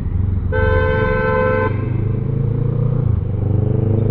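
A vehicle horn sounds once for just over a second, over the steady running of a Kawasaki ER-6N's 650 cc parallel-twin engine with its gutted, less restrictive exhaust.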